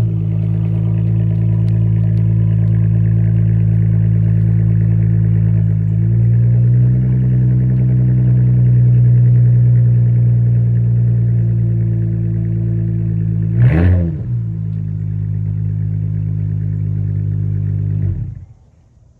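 Chrysler 300's engine running at idle while the car is moved a short way, with a brief rev about fourteen seconds in. The engine is switched off shortly before the end and cuts out suddenly.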